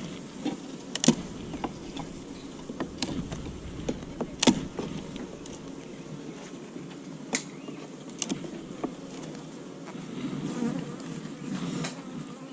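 Honeybees buzzing steadily around an open hive, with scattered sharp clicks and knocks; the loudest come about one second and four and a half seconds in.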